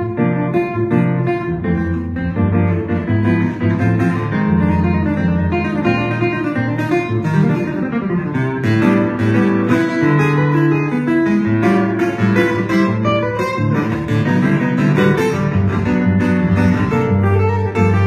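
Live instrumental music from a small ensemble, guitar to the fore, with plucked notes over a steady bass line.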